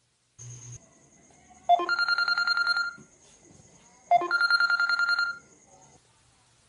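Telephone ringing twice, each ring a rapid trill lasting a little over a second, with a short pause between. A soft click comes just before the first ring.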